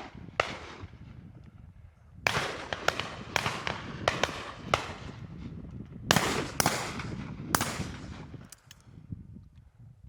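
Shotguns firing at driven game birds: about a dozen sharp reports from several guns, each followed by a short echo. They come in a few quick clusters, busiest in the middle, and thin out near the end.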